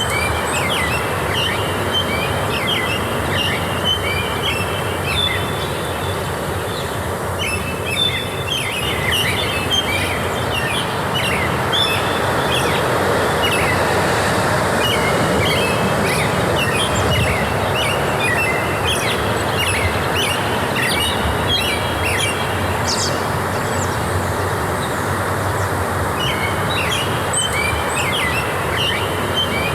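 Several small songbirds chirping and trilling in quick, high runs, pausing briefly twice, over a steady rushing noise of forest ambience.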